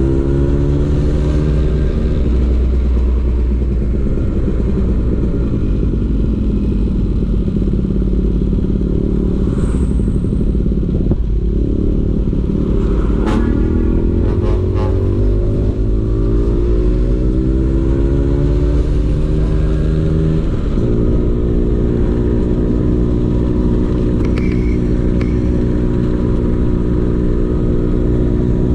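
Vespa PX 150's two-stroke single-cylinder engine running through a DRC Victory racing exhaust while being ridden, the revs falling and rising several times, with a sudden step in pitch about two-thirds through.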